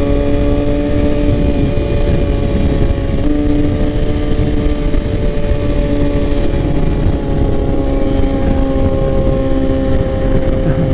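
Motorcycle engine running at a steady cruising speed, its note easing slightly lower over the seconds, under heavy wind rumble on the microphone.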